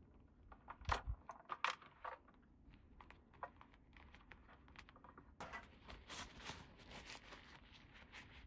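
Small plastic toy pieces clicking and tapping as they are handled and set down, the loudest knock about a second in. From about five seconds in, a denser crackling rustle full of small clicks, like plastic packaging being handled.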